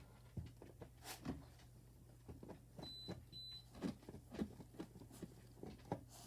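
Faint scattered clicks and knocks of a screw being turned in by hand with a screwdriver into a plywood board, over a steady low hum. Two brief faint high beeps sound about three seconds in.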